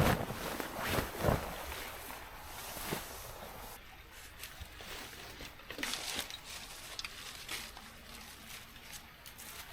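Wind gusts rumbling on the microphone for the first second or so, then quieter outdoor noise with scattered soft rustles and clicks.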